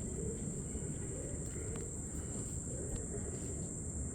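Insects droning steadily at a high pitch, over a low rumbling haze.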